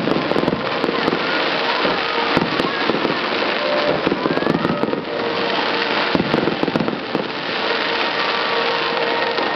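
Fireworks display: fountain fireworks hissing while aerial shells burst overhead, in a dense, continuous run of crackles and bangs.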